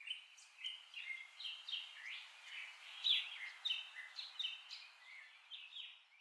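Small songbirds singing: a busy run of short, quick chirping notes, some sliding down in pitch, over a faint steady hiss.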